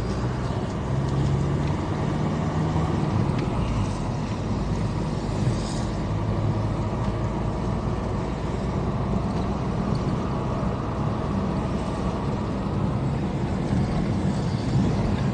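Car running along a road: a steady low engine hum with tyre and road noise, no sudden events.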